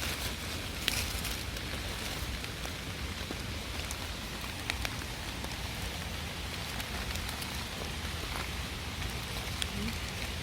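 Steady rain falling, an even hiss with scattered louder drops ticking now and then.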